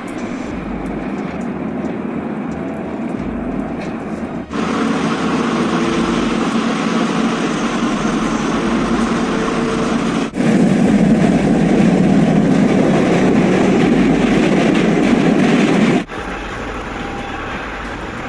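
Steady vehicle noise in several short segments, each changing abruptly to the next about four and a half, ten and sixteen seconds in.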